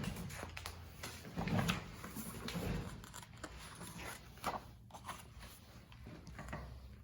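A picture book being handled and its pages turned, with scattered soft rustles and clicks.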